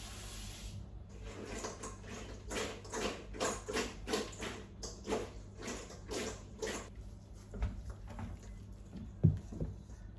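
Water running briefly, then a quick series of irregular splashes and knocks as hot roasted peppers are dropped and handled in a bowl of cold water, ending with a low thump.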